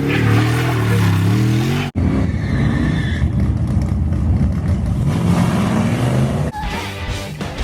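Truck engine, the 225 cubic-inch slant six inline six, revving with its pitch rising and falling. It is heard in clips joined by sudden cuts about two seconds in and again near the end.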